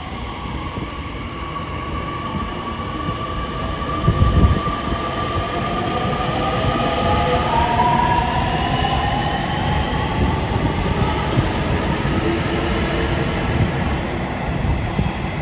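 Nishitetsu electric train pulling away, its motor whine rising in pitch in several steps as it accelerates. The wheel and rail rumble grows steadily louder, with a brief thump about four seconds in.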